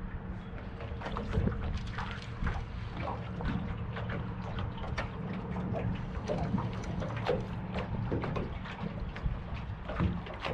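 Strong wind buffeting the microphone and water slapping against a boat's hull in short irregular knocks, over a steady low hum.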